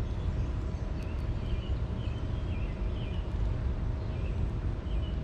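Short, high bird chirps, about eight scattered through, from small birds at a feeder, over a steady low rumble.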